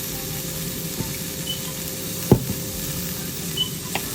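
Asparagus sizzling in butter and garlic in a pan, a steady sizzle, with one sharp knock a little past halfway and a few lighter clicks.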